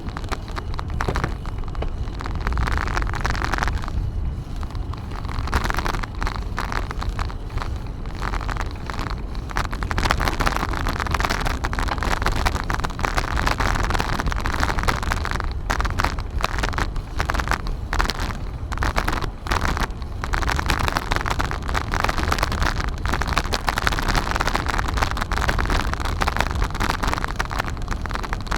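Wind buffeting the microphone of a camera carried on a moving bicycle, swelling and fading over a steady low rumble.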